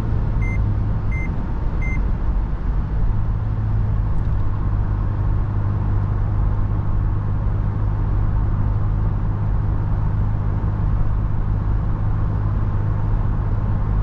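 Steady drone of a Toyota FJ Cruiser's 4.0-litre V6 on the move, with road and wind noise as heard inside the cabin. A short electronic beep repeats about every two-thirds of a second, three times in the first two seconds, then stops.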